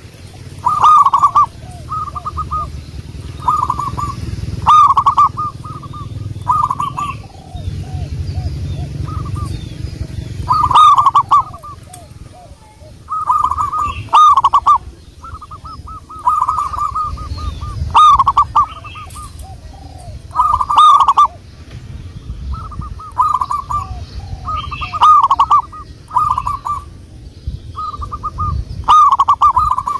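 Zebra dove (perkutut) cooing: loud, stuttering coo phrases repeated every two to three seconds, with a low rumble underneath.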